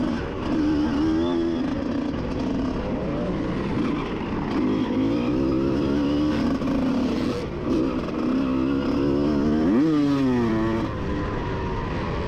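1988 Honda CR125's single-cylinder two-stroke engine revving hard and dropping back as it is ridden around a motocross track, its pitch rising and falling. Just before ten seconds in it climbs steeply to a high rev and then falls off.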